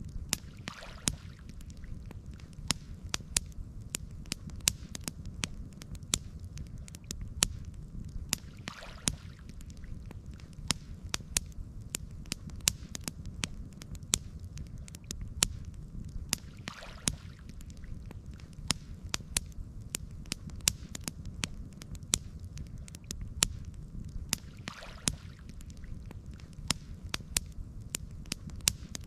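Campfire burning, crackling with frequent sharp pops and snaps over a steady low rumble.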